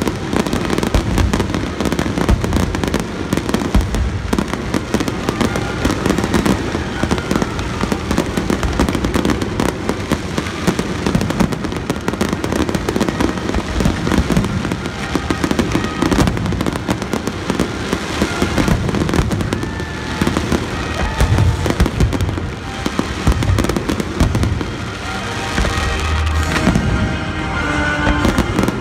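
Fireworks finale barrage heard at close range: a dense, continuous run of overlapping aerial shell bursts and crackles with no pause between them.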